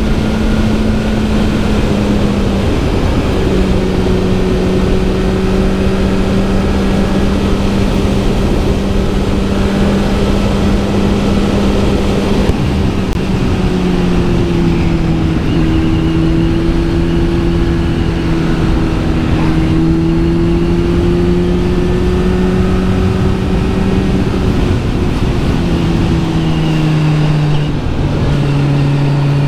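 Kawasaki Z900 SE inline-four engine running through an SC-Project S1 exhaust at steady cruising revs. Its pitch holds fairly level and steps down a few times: about three seconds in, about halfway, and twice near the end.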